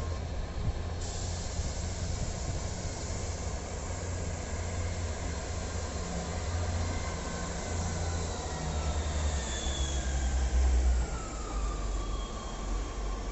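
A train at a station platform: a deep, steady rumble of its running gear and engine, with a whine that slides down in pitch about ten seconds in.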